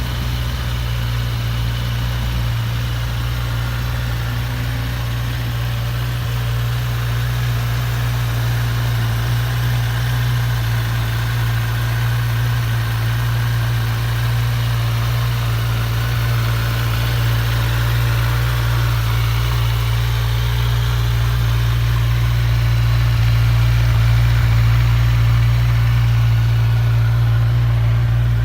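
Kawasaki Z1000SX's 1043 cc inline-four engine idling steadily, with a deep even hum.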